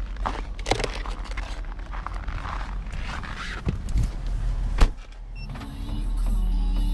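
Irregular rustling and clicking handling noises with a sharp knock a little before halfway through the back half, then music comes in and plays steadily near the end.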